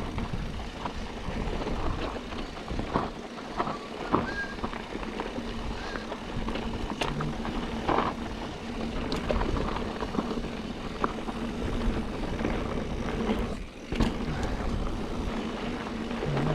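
Mountain bike descending a rough dirt trail: wind on the helmet or bike-mounted microphone and tyres rolling over dirt and rocks, with frequent short knocks and rattles from the bike over bumps.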